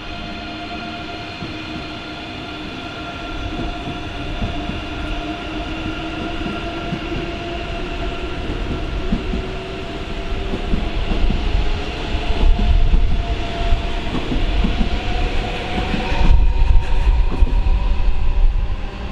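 Electric train moving off and accelerating, its traction motors whining in several steady tones that slowly rise in pitch. Rumble and wheel clatter grow louder as it goes by.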